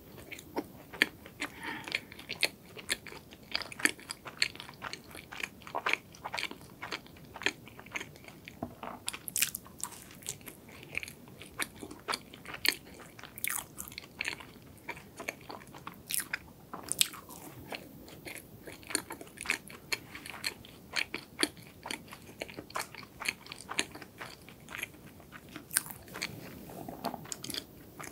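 Close-up mouth sounds of someone biting and chewing a hazelnut-filled donut, with many small crisp crunches.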